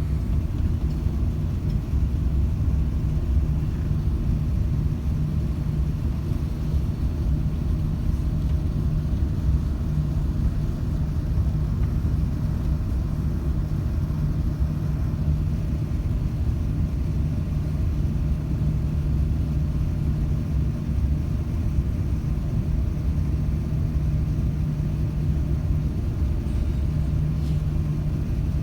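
Steady low rumble and hum of an Airbus A380 heard from inside the passenger cabin, engines at low power, holding level without building up.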